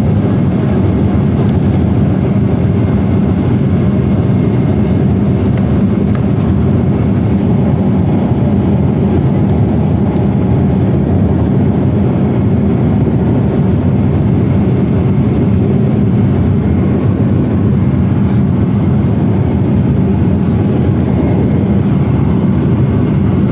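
Boeing 777-300ER cabin noise: the steady, loud rumble of its GE90 jet engines and the airflow, heard from inside the cabin, with no change in pitch or level.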